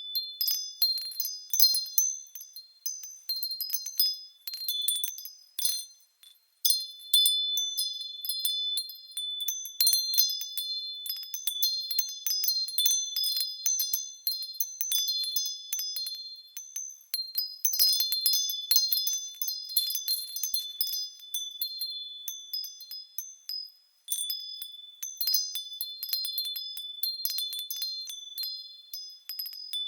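Japanese furin wind chime ringing in the wind: clear, high tones struck again and again at an uneven pace. It briefly falls quiet twice.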